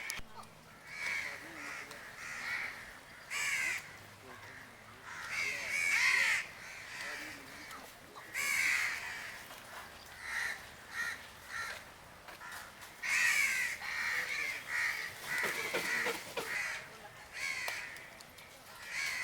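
Crows cawing repeatedly, several harsh calls in quick runs, some loud and close and others fainter, loudest around six, eight and thirteen seconds in.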